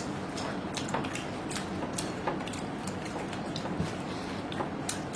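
Scattered light clicks and taps of spoons and forks on plates during a meal, over steady room noise.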